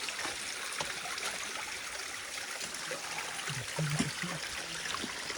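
Shallow stream water running and trickling steadily over stones.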